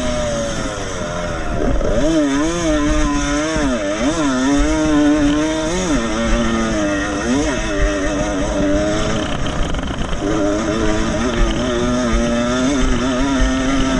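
Vintage 125 cc two-stroke motocross motorcycles racing, the engine pitch rising and falling again and again as the throttle is opened and closed.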